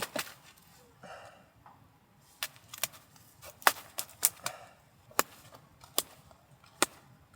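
Wood burning in a small titanium wood stove, giving off sharp, irregular pops and snaps, about nine of them spread over the last five seconds.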